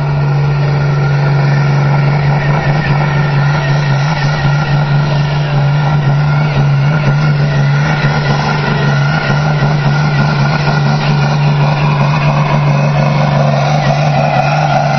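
Massey Ferguson 699 tractor's diesel engine running hard at high revs under load during a competition pull, a loud steady drone, with a higher tone rising over it near the end.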